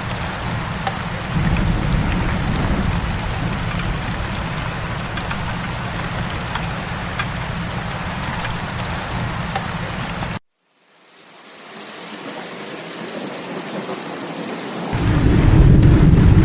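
Steady heavy rain with a low rumble underneath. About ten seconds in, the sound cuts out abruptly and then fades back in over a few seconds. The low rumble swells again near the end.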